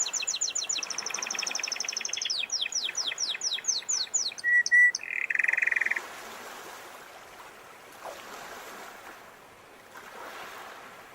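Domestic canary singing: a fast high trill, then a run of quick downward-sweeping notes, two short whistles and a low buzzy roll, stopping about six seconds in. Faint sea waves then wash in and out twice.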